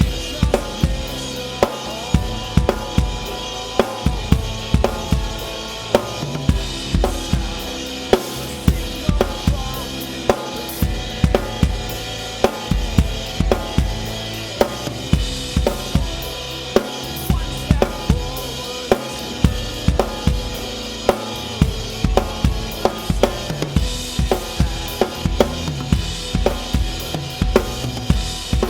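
Drum kit played in a steady rock groove, bass drum and snare hits keeping an even beat, over the rest of the song's band.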